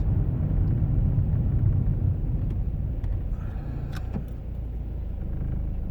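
Car being driven, heard from inside the cabin: a steady low engine and road rumble that eases slightly about four seconds in, with a faint click or two.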